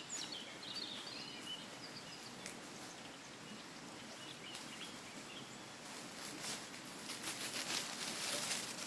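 Small birds chirping in short bursts over a steady outdoor background hiss, then, for the last few seconds, a growing run of crunching, rustling crackles.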